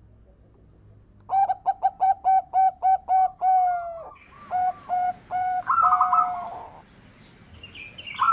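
Zebra dove (perkutut) cooing. After a quiet second, a rapid run of about nine short notes is followed by a few longer coos and a rolling trill-like phrase. Another phrase begins near the end.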